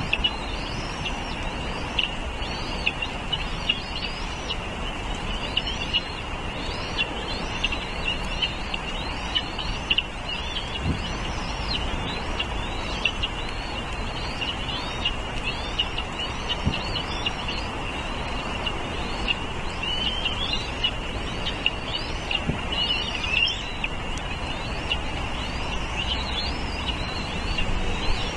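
Small birds chirping in a quick, continuous stream of short high calls, many sweeping upward, over a steady low rumble.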